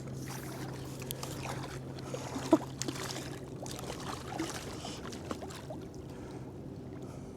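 Water splashing and trickling around a kayak, with scattered small knocks and clicks and one sharp knock about two and a half seconds in, over a steady low hum.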